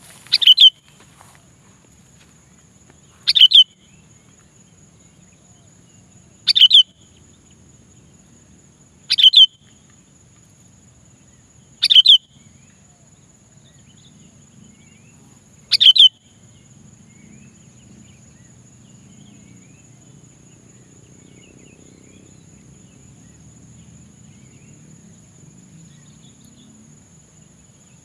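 Sooty-headed bulbul (kutilang) giving six short, loud, falling calls about three seconds apart, then stopping partway through. It is a lure call used to draw wild bulbuls in.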